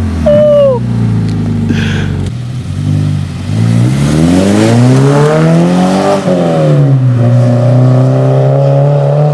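FR-S/BRZ's flat-four boxer engine with its muffler deleted, running on straight pipes. It settles back to idle, is revved up to a peak about six seconds in, drops, and is then held at a steady higher rev near the end.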